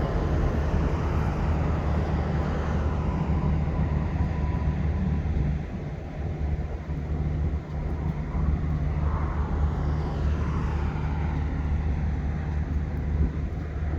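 A steady low engine hum under wind noise on the microphone.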